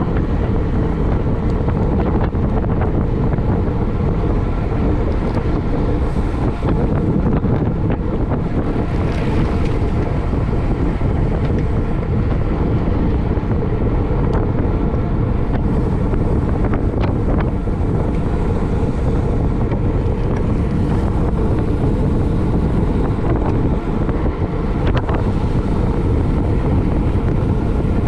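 Steady wind buffeting the microphone of a camera carried in a bicycle race at speed, a constant low rumble with a few faint brief ticks.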